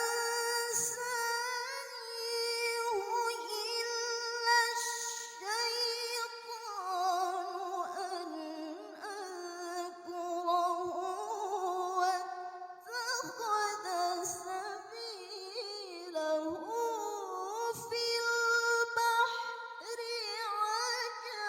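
A woman reciting the Qur'an in melodic tilawah style, drawing out long ornamented notes that waver and glide in pitch, with short pauses for breath between phrases.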